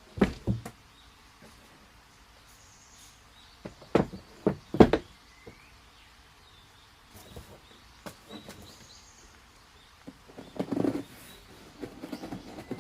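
Scattered knocks and clicks of household things being handled: a few at the start, a louder cluster about four to five seconds in, and soft rustling near the end. Faint bird chirps sound in the quiet between.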